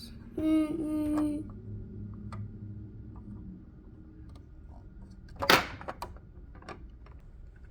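Plastic Lego pieces being handled, with scattered light clicks and one sharp clack about five and a half seconds in; a short hummed voice sound comes near the start.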